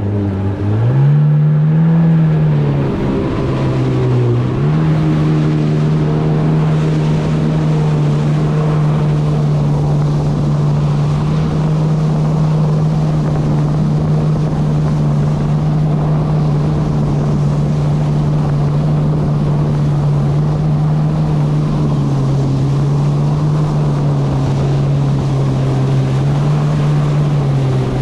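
Kawasaki SX-R 160 stand-up jet ski's 1,498 cc four-stroke engine under way. It revs up about a second in, eases off briefly, then holds a steady high-rpm note at speed, over rushing water and wind.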